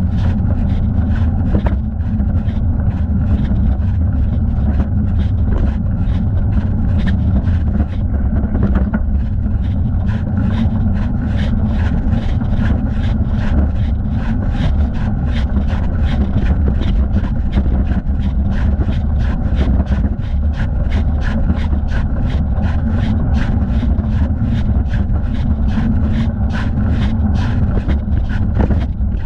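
Bicycle ride heard from a thigh-mounted camera: a loud, steady low rumble of wind and rolling noise on the microphone, with a regular ticking about twice a second.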